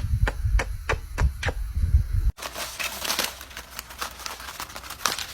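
A quick regular series of about seven sharp clicks, roughly four a second, stopping after about a second and a half. After an abrupt cut, scattered crackling and rustling clicks follow.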